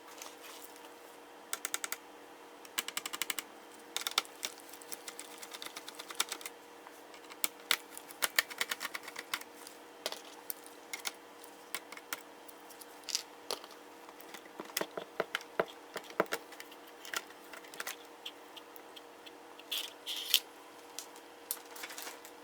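Irregular small clicks, taps and short rattles of plastic and metal laptop parts and tools being handled as a Samsung NP-Q70 laptop is taken apart, over a steady faint hum.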